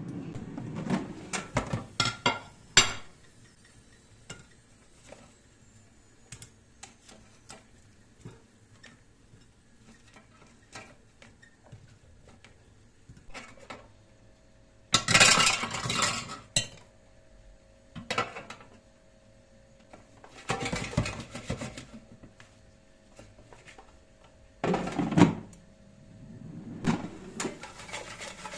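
Kitchen dishes and cutlery being handled: a quick run of clinks and knocks at the start, then scattered light ticks and several louder clattering bursts in the second half, with a faint steady hum underneath for part of it.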